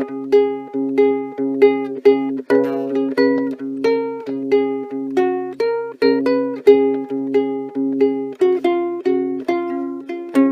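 Ukulele fingerpicked in a steady instrumental pattern, single plucked notes at about three a second with no singing.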